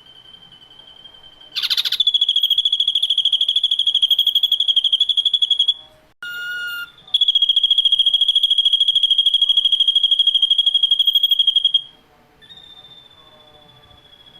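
Ashy drongo song: two long, rapid pulsing high trills of about four seconds each, with a brief burst of several clear whistled tones between them, over a faint steady high tone.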